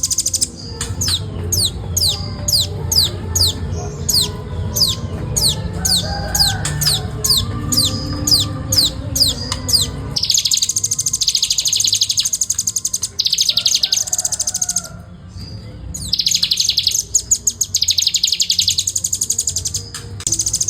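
Velvet-fronted nuthatch singing. It starts with a run of quick high notes, each sliding downward, about two a second. About halfway through it switches to a very fast, dense chattering trill in bursts of about a second, with short pauses between them: the rapid 'ngebren' song.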